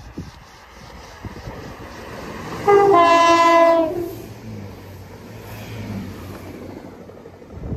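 Chiltern Railways diesel multiple unit running through the station at speed, sounding one loud horn blast of just over a second as it reaches the platform, its pitch dropping near the end as the cab goes by. The rumble and low engine hum of the train passing follow, with a knock near the end.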